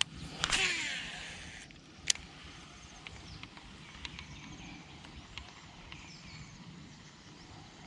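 Fishing cast: a reel's spool whirs, falling in pitch as it slows, and a sharp click follows about a second later, likely the reel re-engaging. Faint outdoor background with small high chirps.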